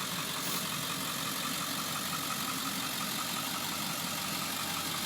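Ford 7.3 Powerstroke V8 turbo diesel idling steadily.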